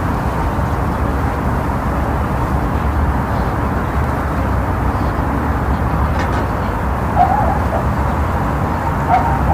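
Wind blowing steadily across the microphone, a deep continuous rumble. Two short wavering animal calls come through it about seven and nine seconds in.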